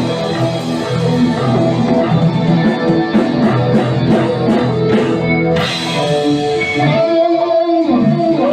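Guitar-led rock band music with drums, played as an instrumental passage. About seven seconds in, the rhythm gives way to a held note that bends in pitch, like the close of a song.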